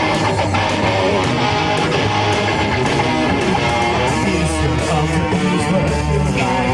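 Rock band playing live without vocals: strummed electric guitar with bass guitar, at a steady loud level.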